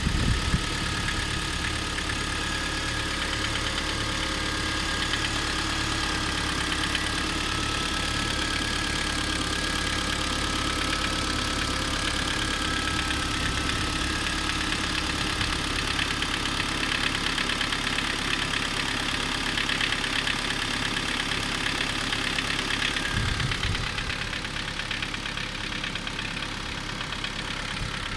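Second-generation Kia Sorento engine idling steadily with a knock in the engine, the fault being shown. A dull low thump comes at the start and another a few seconds before the end.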